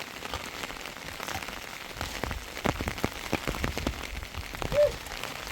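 Heavy rain falling, many separate drops striking a surface, getting heavier about two seconds in. A short high squeak about five seconds in is the loudest sound.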